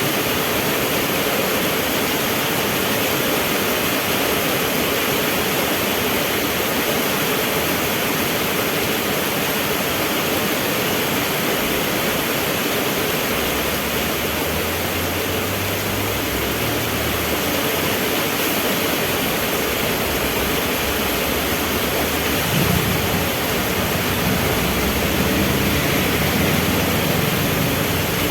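Steady heavy rain hissing, with the low hum of vehicle engines joining partway through and growing louder near the end, as traffic idles or pulls up at a traffic light.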